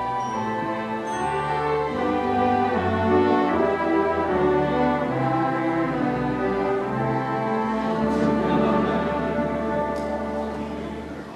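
Orchestral accompaniment playing the closing instrumental bars of a stage musical number, with sustained chords that fade away near the end.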